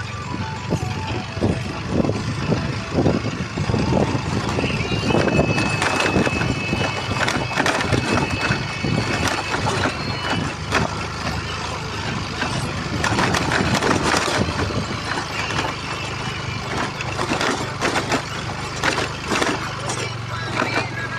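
A motorcycle engine running while riding over a rough, muddy dirt road. The steady engine hum sits under frequent knocks and rattles from the bumpy surface.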